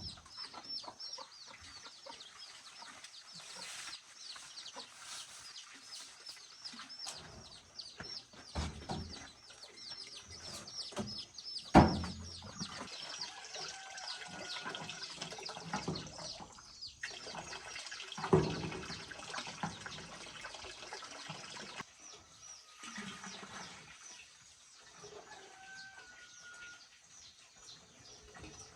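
Birds chirping rapidly and steadily, with clucking like chickens. Two sharp knocks stand out, about twelve and eighteen seconds in.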